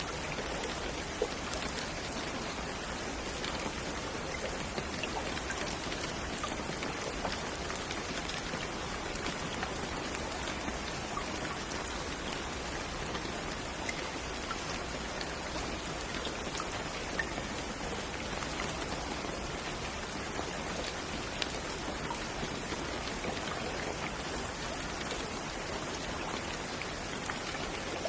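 Steady rain falling, an even hiss of drops with scattered individual drop ticks standing out.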